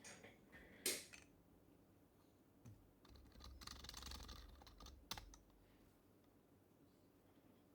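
Typing on an HHKB Professional Hybrid Type-S keyboard with its quieted Topre keys, faint: two separate key presses in the first second, a quick run of typing from about three to five seconds in, one sharper key press just after, then a pause.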